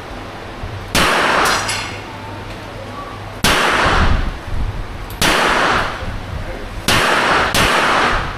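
Five gunshots at a shooting range, unevenly spaced over about seven seconds, each followed by a ringing echo that fades over most of a second.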